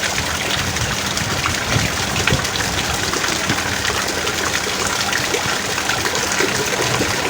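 Heavy rain falling steadily: a dense, even rush of water with many sharp drop impacts through it.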